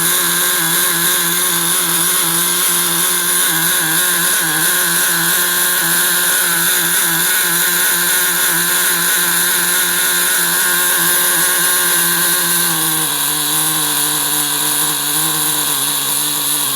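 Small two-stroke model glow (nitro) engine running steadily at high speed with a high, buzzing note; about 13 seconds in its pitch drops a little and holds at the lower speed. The engine is running on a custom piston turned on a lathe.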